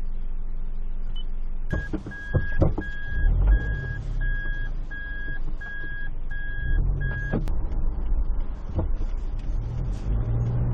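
Car interior with the engine running low and steady. After a couple of clicks, a car's electronic warning beeper sounds in short even beeps about twice a second for some six seconds, then stops with a click.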